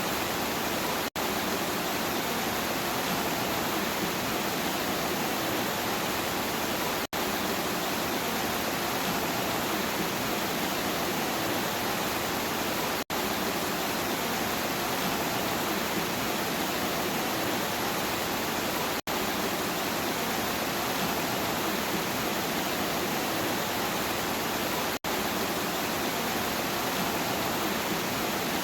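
Steady heavy rainfall, an even rushing hiss, cut by a brief gap about every six seconds.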